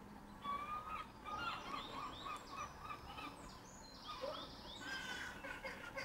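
Birds calling: a quick string of short, repeated chirps, about three a second, followed about four seconds in by busier, higher chirping.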